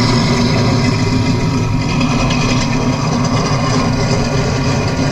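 Simulated piston-engine sound from a model plane's Benedini sound module, running steadily at a low, even pitch.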